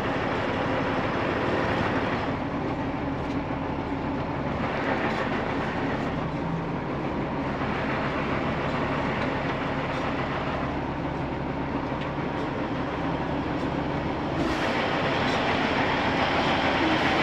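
Freightliner Columbia semi truck running: a steady rumble that swells and eases every few seconds.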